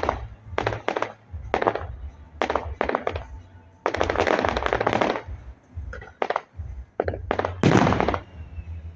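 Fireworks going off in quick succession, a bang or crackle about every half second. A dense second-long crackling burst comes about four seconds in, and a heavier, deeper burst near the end. Music plays underneath.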